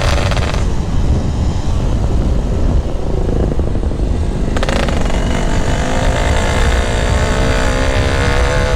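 Yamaha RX King two-stroke engine with a GRT18 K26 aftermarket exhaust, ridden on the road. The engine note drops away from about half a second in as the throttle closes, then comes back about four and a half seconds in and rises steadily in pitch as the bike accelerates.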